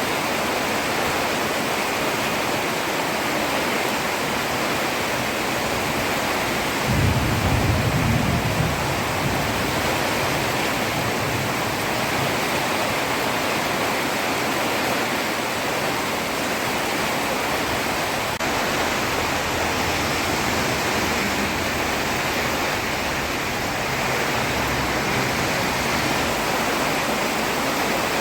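Heavy rain falling steadily on a road, a dense even hiss, with a brief low rumble about seven seconds in.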